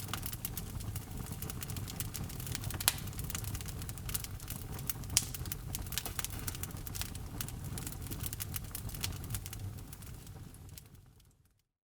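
Wood fire in a fireplace crackling over a low steady rumble of flame, with two sharper pops of burning wood. The sound fades out to silence near the end.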